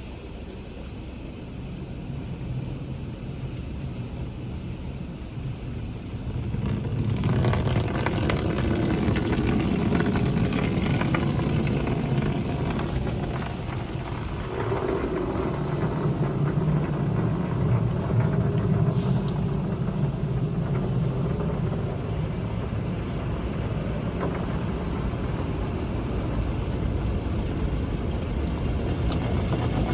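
Automatic conveyor car wash heard from inside the car in neutral: a steady rumble of the wash machinery and water against the body. It grows louder about seven seconds in and changes again about halfway through.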